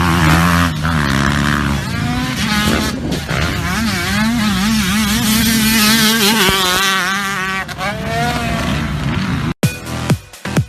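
Motocross dirt bike engines revving, their pitch rising and falling as the throttle is worked. Near the end the sound breaks up into a few short sweeps that drop quickly in pitch.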